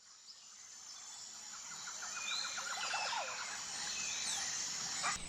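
Outdoor nature ambience fading in: a steady high insect drone with scattered bird chirps and a rapid chattering call in the middle.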